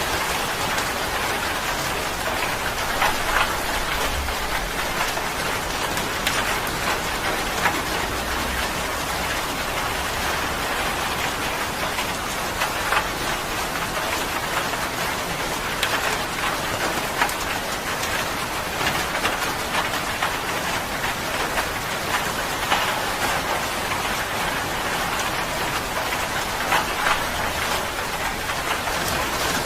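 Steady rain falling on a surface, a constant hiss with scattered sharper drop ticks.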